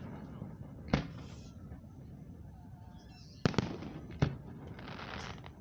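Aerial fireworks bursting: four sharp bangs about a second in and between three and a half and four and a quarter seconds in, each with a short echo, then a crackling hiss near the end.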